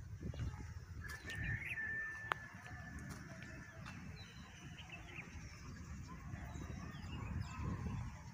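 Birds calling: a long, steady, whistle-like note starts about a second in and lasts a few seconds, followed by short chirps, over a low rumble.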